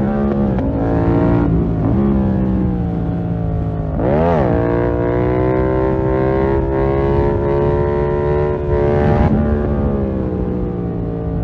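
2020 Yamaha MT-07 parallel-twin engine through a full SC-Project 2-1 exhaust, ridden under throttle. Its pitch steps with gear changes in the first two seconds, dips and jumps back up sharply about four seconds in, then climbs slowly and steadily before dropping a little after nine seconds.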